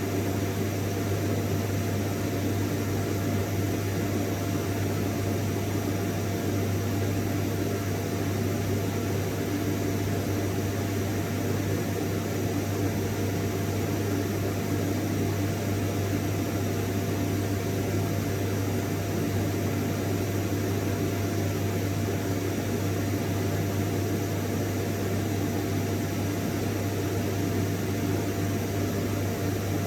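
Vacuum cleaner running steadily and without change: a low motor hum, a thin steady whine and an even rush of air.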